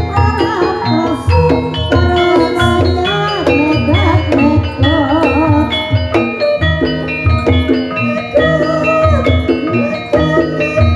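Gamelan-style ensemble music for an ebeg dance: keyed mallet percussion playing busy interlocking notes over repeated low drum beats, with a wavering melody line above them.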